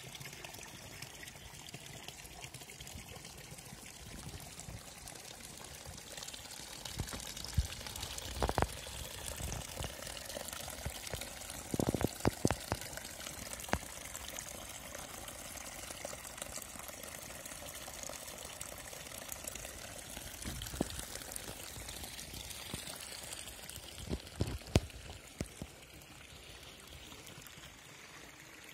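Water from a spring fountain pouring and splashing steadily, with a few sharp thumps about eight, twelve and twenty-five seconds in.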